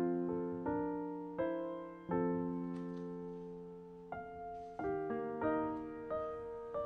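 Background music: slow, gentle solo piano, single notes and soft chords struck and left to ring and fade.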